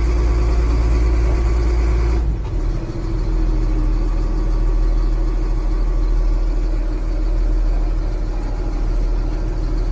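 A vehicle engine running steadily, heard as a low rumble from inside the cab. The rumble shifts about two seconds in.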